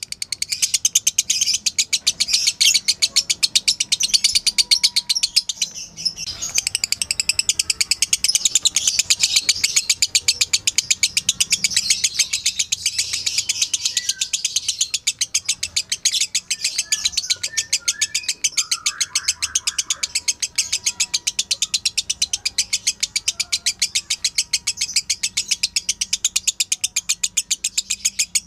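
Lovebird chattering in one long unbroken run of rapid, evenly paced high-pitched notes: the continuous 'ngekek' song.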